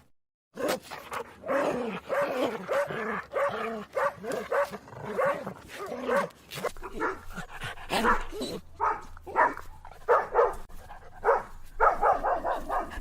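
A dog barking and yelping in a fast run of short calls, about two a second, after a brief silence at the start.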